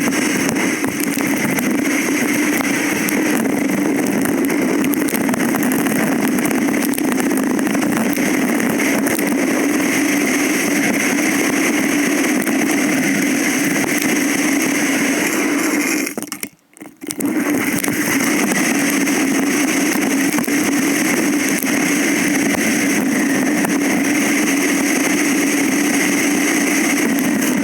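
A vehicle engine running steadily while riding. It cuts briefly to near silence about two-thirds of the way through, then resumes unchanged.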